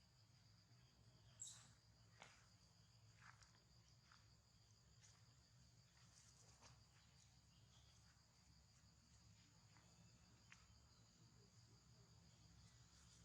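Faint, steady high-pitched insect drone in two even tones, with a few brief faint chirps or clicks, the clearest about a second and a half in.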